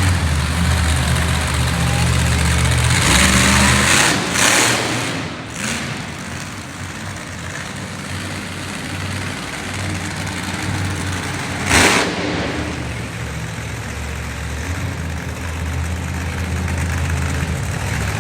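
Monster truck engine running hard, its low note rising and falling as the throttle changes. There are two loud noisy surges, a long one a few seconds in and a short sharp one about twelve seconds in.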